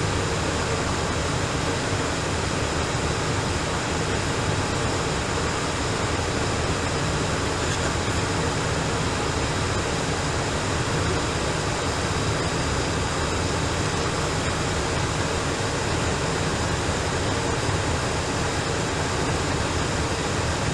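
Steady, even static hiss of an air traffic control radio feed between transmissions, unchanging throughout.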